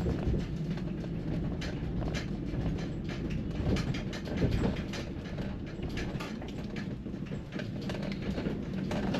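Cargo van on the move, heard from inside the cab: a steady low rumble of road and engine noise, with frequent light rattles and clicks.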